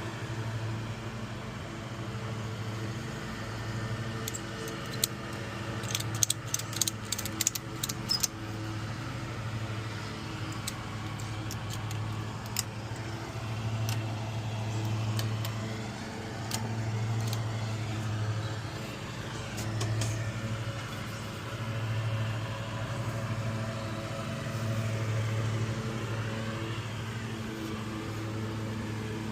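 Electric power tool motor running steadily as it strips rust from a metal go-kart seat, its hum swelling and easing every two to three seconds as it is pressed against the work. A burst of sharp clicks and rattles comes about six to eight seconds in.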